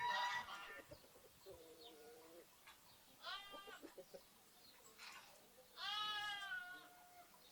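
Lambs bleating: two clear bleats about three and a half and six seconds in, the second longer, after a lower, quieter call around two seconds in. A loud animal call tails off at the very start.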